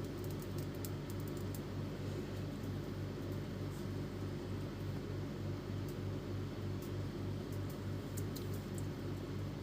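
Epson L310 inkjet printer's mechanism running with the case opened: a steady low motor hum that pulses evenly about four times a second, with a few faint ticks.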